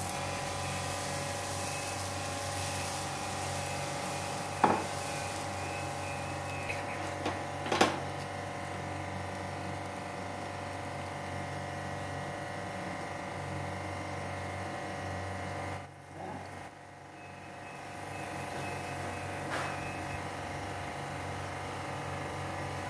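Rava uttapam batter sizzling faintly on a hot tawa over a steady hum, with two sharp clicks about five and eight seconds in.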